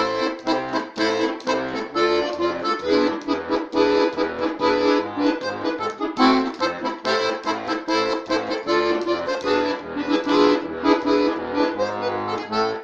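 Accordion playing an instrumental introduction: a quick melody over a rhythmic bass-and-chord accompaniment, breaking off briefly just at the end.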